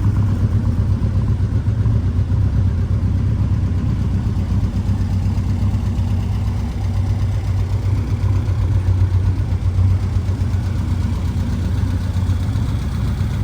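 A 1961 Lotus Seven Series 2's engine idling, a steady low rumble.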